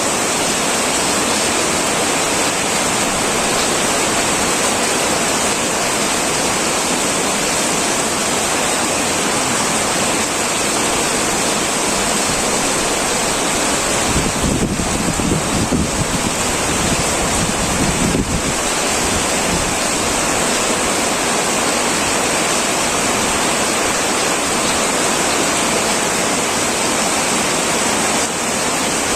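Heavy rain falling steadily on a metal roof, an even hiss. Midway through, a low rumble swells for about four seconds and then fades.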